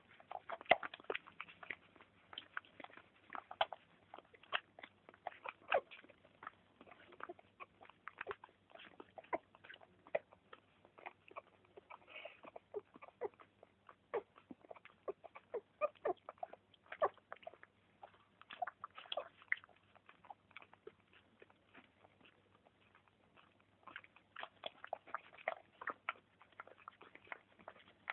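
Puppies chewing and smacking: a rapid, irregular run of small clicks and wet smacks, with a brief squeak about twelve seconds in.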